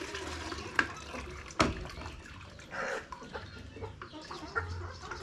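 Chickens clucking, with two sharp knocks a little under a second apart, the second one the loudest.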